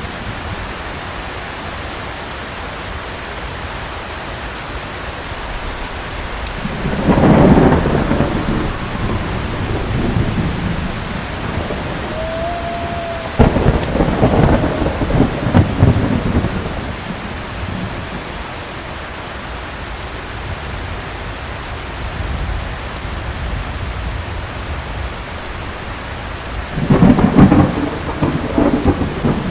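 Heavy rain falling steadily, with three rolls of thunder: one about a quarter of the way in, one that starts sharply near the middle, and another near the end.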